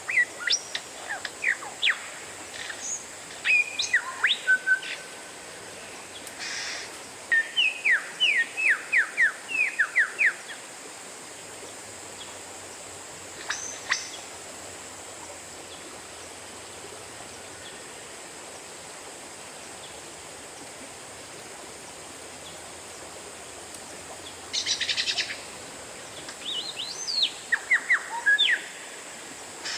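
Oriental magpie-robin singing in bursts of sharp whistles and quick runs of falling whistled notes, with a harsh rasping call near the end. A long lull in the middle leaves only a faint steady hiss.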